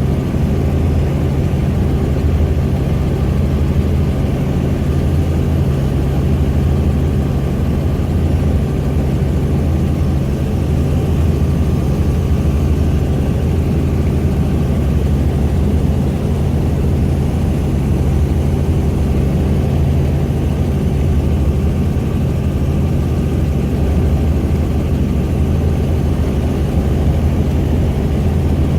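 Helicopter in flight: the steady drone of its engine and rotor, with several unchanging low tones under a noisy rush.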